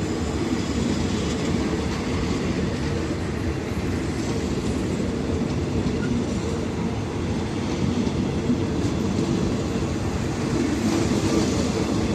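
A State Railway of Thailand rapid passenger train running along the track as it leaves the station: a steady rumble of wheels on rail.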